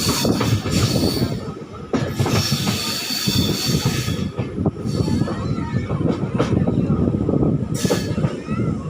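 Indian Railways passenger coach running over the rails, its wheels squealing in high steady tones with scattered clicks from the track, as the train slows into a station.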